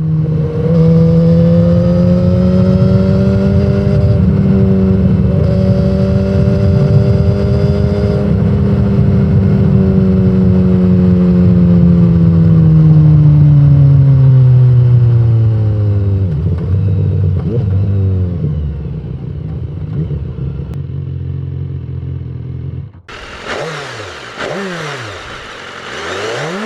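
BMW S1000RR inline-four engine and exhaust holding steady high revs, then the revs slowly fall away. About twenty-three seconds in, the sound turns to a rushing hiss with quick rises and falls in revs.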